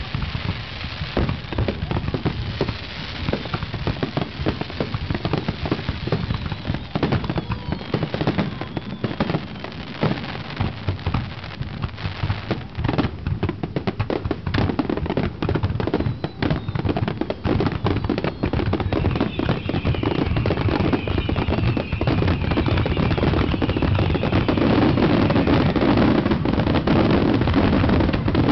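Fireworks display: a rapid run of bangs and crackles from bursting shells, growing denser and louder toward the end.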